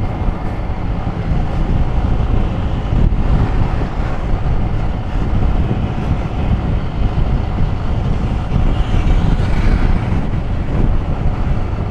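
Motor scooter riding noise: steady wind rushing over the microphone mixed with engine and road noise.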